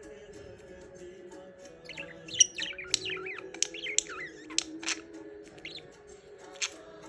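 Budgerigars chirping and warbling: a few sharp clicks at first, then about two seconds in a quick flurry of chattering, warbling chirps, followed by a few single sharp chirps.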